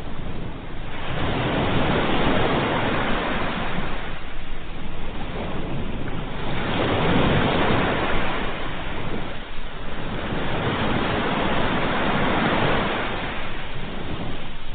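Ocean waves breaking and washing up onto the shore, surging and falling back about three times, every four to five seconds.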